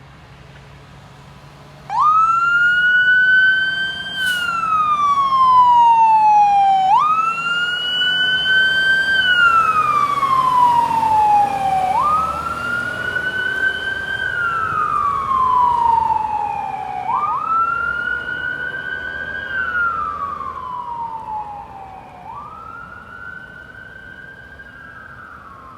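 Fire engine siren starting about two seconds in and wailing, each cycle a quick rise followed by a slow fall, about every five seconds. It grows fainter over the last several seconds as the engine moves away.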